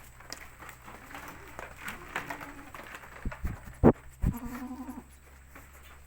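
Goats bleating: two wavering calls, one a second or so in and one a little past four seconds. Between them come a few loud, sharp thumps, the loudest just before the second bleat.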